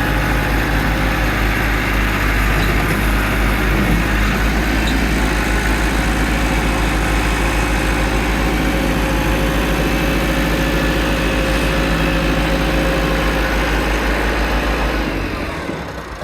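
Tractor engine running steadily with a deep low rumble, dropping away about fifteen seconds in.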